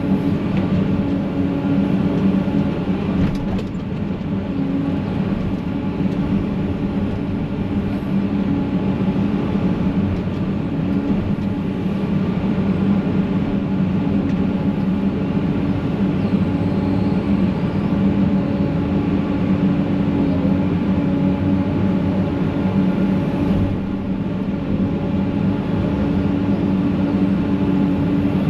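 Excavator's diesel engine running steadily while it works at a stump, a constant engine drone with a couple of brief dips in level.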